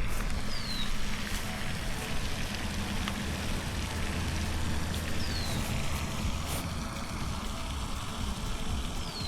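Wind rushing and buffeting against the microphone, with a low rumble. A short, high whistle falling in pitch sounds three times, a few seconds apart.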